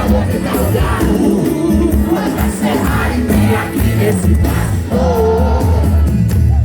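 Live band music played loud through a stage PA, with heavy bass and a sung melody, and crowd voices shouting along.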